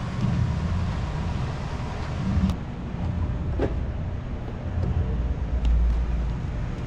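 Low, steady rumble of a scooter rolling across a hall floor, with a couple of faint clicks.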